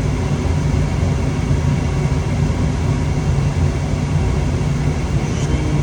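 Gas furnace running on a call for heat with a steady low hum and rushing noise. The burners are staying lit now that the dirty flame sensor has been cleaned.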